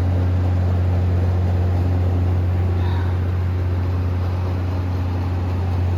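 Steady low mechanical drone, a constant deep hum with a rough noisy wash over it, unchanging throughout.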